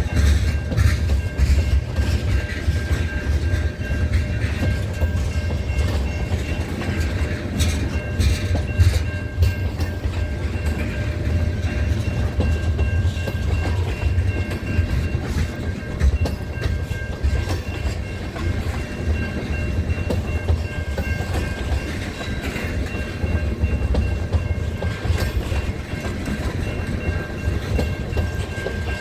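Freight train tank cars rolling past close by: a steady low rumble with wheels clicking irregularly over rail joints, and a thin steady high tone underneath.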